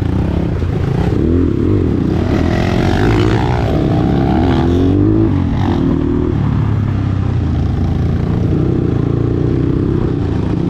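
Dirt bike engine running, its revs rising and falling from about one and a half to five seconds in, then holding a steady note.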